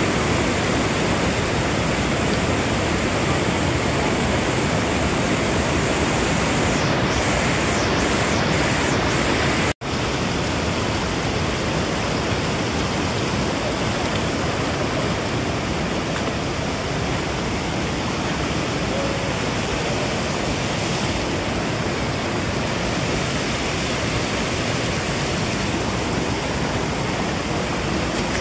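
Heavy rushing water, a steady loud roar of falling or fast-flowing water. It breaks off for an instant just before ten seconds in, then carries on unchanged.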